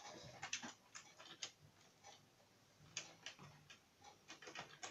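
Faint, irregular light clicks and taps in small clusters: model railway coaches being handled and set on the track.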